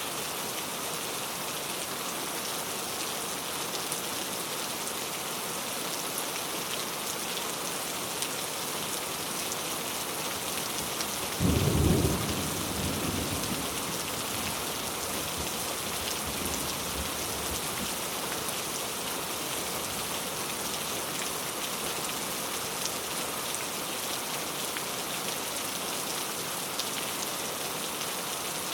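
Steady rain falling. A little before the middle there is one clap of thunder, a low boom that is the loudest sound and dies away over a few seconds.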